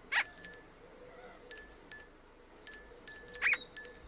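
Bright, high bell-like chime notes ringing about six times in quick, uneven succession, with a short rising squeak near the start and another about three and a half seconds in.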